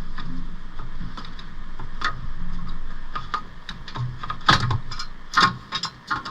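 Metal hand tools and car parts clicking and clanking in irregular knocks, the two loudest about four and a half and five and a half seconds in, over a low hum that fades away.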